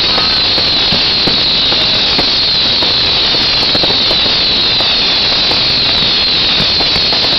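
Fireworks hissing continuously, many burning at once, with fine crackling throughout and no single big bang.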